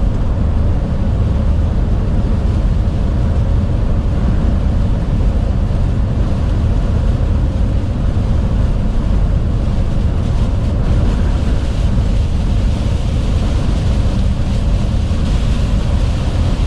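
Steady loud rumble inside a moving truck's cab in heavy rain and strong wind: engine and tyres on wet road, with rain and wind hissing against the cab. The hiss grows a little louder near the end.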